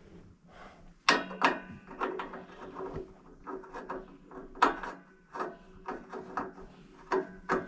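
An irregular series of knocks and clatters, starting about a second in, the loudest near the start and in the middle, over a faint steady hum.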